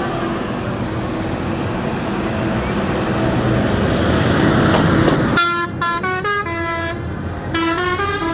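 A heavy parade vehicle's engine running and growing louder as it passes. About five seconds in, a musical horn sounds a quick run of stepped notes, then a second short run near the end.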